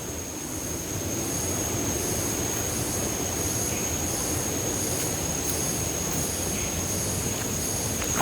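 Steady rushing of a waterfall's water, an even noise without breaks, with a thin, steady high whine over it.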